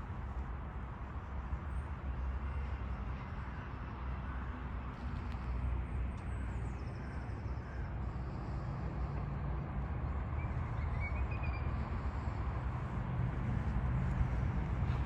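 City park ambience: a steady low rumble of distant traffic, with a few faint bird chirps around the middle.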